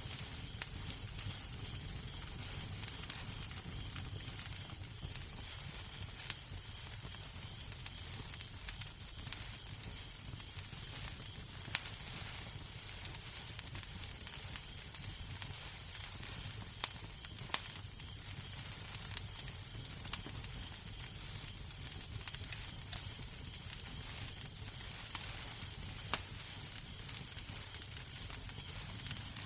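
Wood fire crackling in a fireplace: a steady soft hiss with irregular sharp pops and snaps scattered throughout, and a low rumble underneath.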